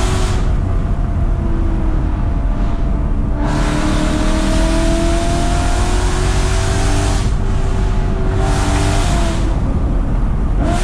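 BMW E92 M3's V8 engine pulling hard, heard from the driver's seat: its note climbs steadily for several seconds, drops back at a shift from fourth to fifth gear, then climbs again.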